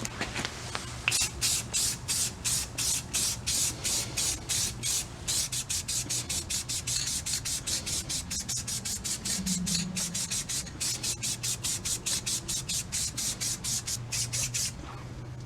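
Rapid, regular back-and-forth rubbing strokes by hand, about three a second, each one a short hiss. The strokes stop near the end, over a low steady hum.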